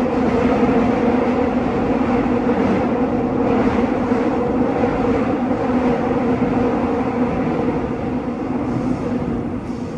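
Seoul Subway Line 6 electric train running between stations, heard from inside the car: a steady rumble of wheels on rail with a constant motor hum, growing a little quieter near the end.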